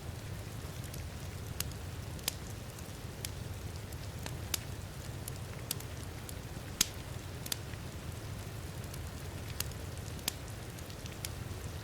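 Wood fire crackling in a fireplace: sharp pops at irregular intervals, the loudest about seven seconds in, over a steady low rumble and an even hiss of rain.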